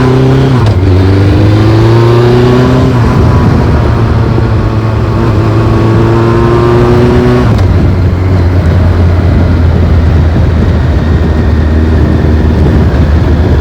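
Motorcycle exhaust under way: the engine note climbs as the bike accelerates, drops suddenly with a gear change about a second in and again about halfway through, then holds a steady pitch.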